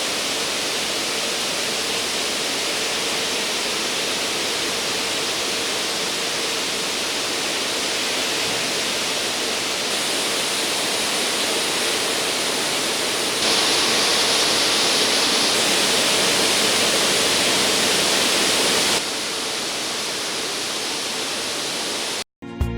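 Steady rushing water, like a waterfall, with no tune or rhythm. It changes level abruptly a few times, louder and brighter for about five seconds past the middle, and cuts off sharply near the end.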